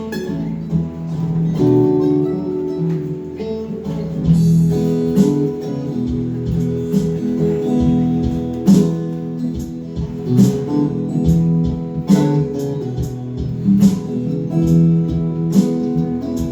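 Instrumental song intro led by strummed acoustic guitar chords, with sharp accents on a regular beat.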